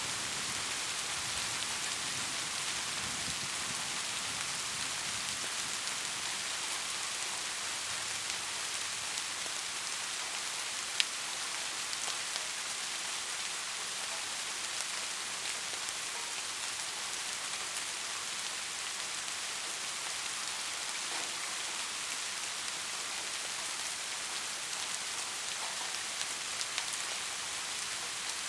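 Steady rain falling as an even hiss, with the low rumble of thunder dying away over the first few seconds. About eleven seconds in there is a single sharp tap, like a heavy drop.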